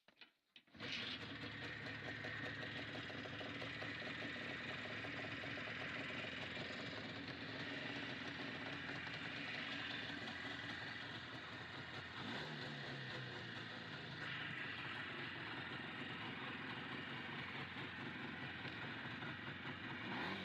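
IZh Jupiter-3 motorcycle's two-stroke twin-cylinder engine: a few clicks, then it catches about a second in and runs steadily at idle.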